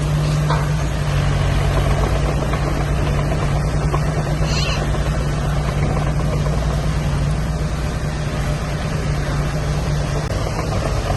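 Heavy diesel engine of earthmoving machinery running steadily, a constant low drone.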